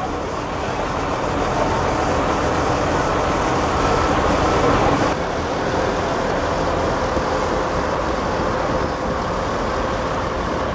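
Heavy diesel vehicle, a truck or bus, running close by, growing louder for the first few seconds and easing off a little about five seconds in.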